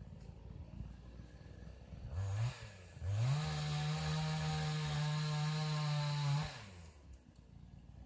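A small engine revving: a short blip, then a quick rise to full speed held for about three seconds before it drops back.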